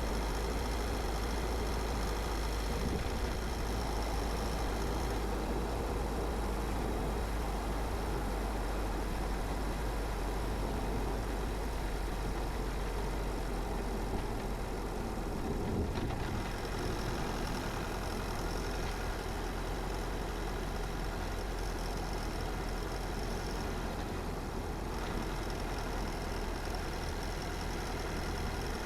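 Car driving along a road: steady engine and tyre noise with a strong low rumble, swelling briefly about halfway through.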